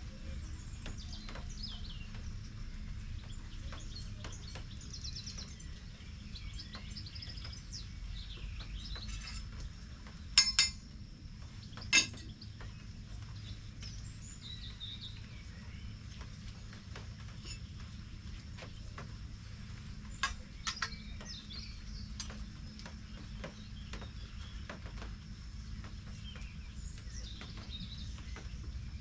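Birds chirping against a steady low background noise, with a few sharp clinks, the loudest about ten and twelve seconds in and two smaller ones near twenty seconds.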